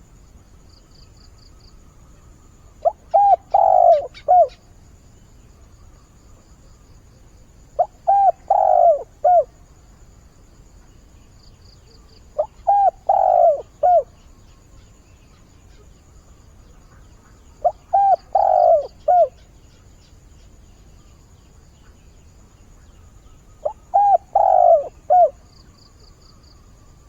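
Spotted dove, a caged decoy bird, cooing its advertising call to draw wild doves: five phrases of three or four notes, one about every five seconds.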